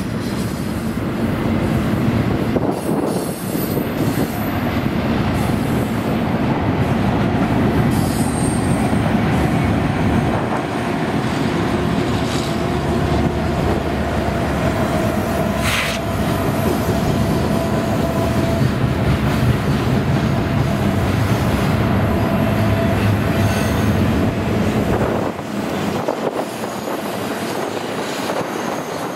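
Diesel locomotives and double-stack intermodal cars of a passing freight train, with a steady rumble of engines and wheels on rail. A thin steady wheel squeal rides over it from about twelve to twenty-four seconds in. The deep rumble drops away near the end as the locomotives pass.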